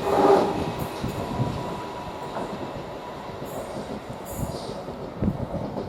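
London Northwestern Railway Class 350 Desiro electric multiple unit pulling away and receding. A steady whine and its running noise are loudest at the start, then fade away over the next few seconds.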